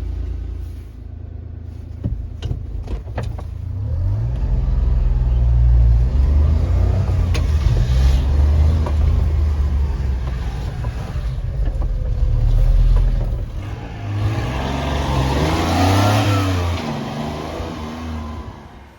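Honda Acty mini truck's small three-cylinder engine running and revving, its pitch rising and falling several times, louder and brighter about three-quarters of the way through before easing off. A few sharp clicks in the first seconds.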